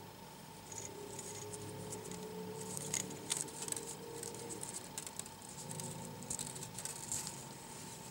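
Faint rustling and small scraping clicks of thin wire being drawn with a needle through a crocheted snowflake.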